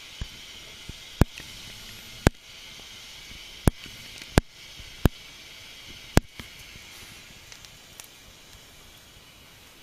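Vegetable-oil stove flames burning used tempura oil: a steady hiss with six sharp pops spread over the first six seconds.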